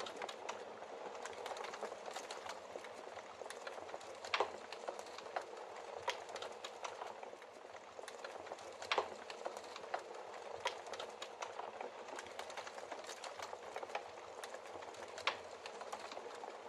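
Logs burning in a fireplace: a steady hiss of flame with frequent small crackles, and three louder pops, about four, nine and fifteen seconds in.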